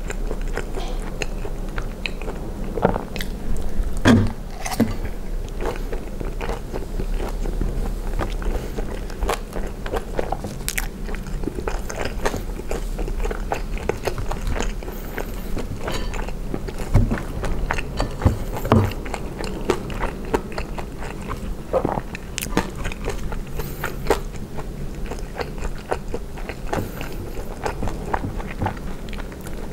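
Close-miked chewing and biting of poutine: soft, gravy-soaked fries and cheese curds, heard as many short, irregular clicks and smacks, with now and then a fork working in the cast-iron pan.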